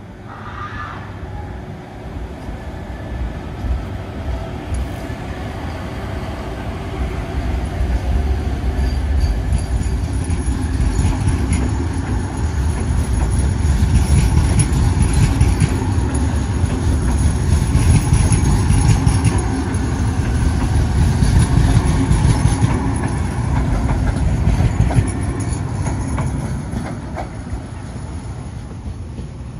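VR Pendolino Sm3 electric tilting train pulling out past the platform: a low rumble of wheels and running gear that builds over about fifteen seconds, with clicking from the wheels on the rails, then fades near the end. A faint high whine runs underneath.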